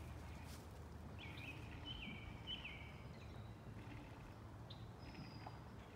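Quiet woodland ambience with a steady low background rumble, and a small bird singing a short run of chirping notes about a second in, then a thin high whistle near the end.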